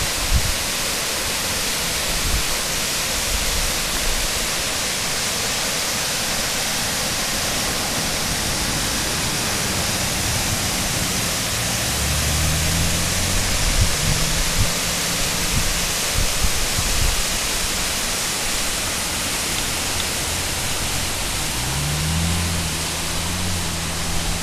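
Steady rushing and splashing of a roadside waterfall. A low engine hum from passing vehicles rises under it about halfway through and again near the end.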